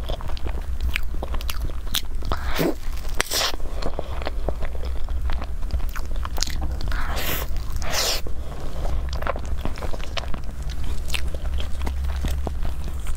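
Close-miked wet chewing and biting of soft mille crêpe cake, with many small lip-smacking clicks and a few brief squelches, over a steady low hum.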